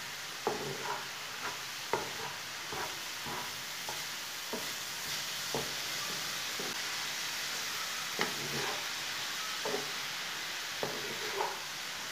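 Chopped chicken, cabbage, capsicum and carrot frying in a non-stick pan over medium heat: a steady sizzle, with irregular soft knocks and scrapes as a wooden spatula stirs through the mix.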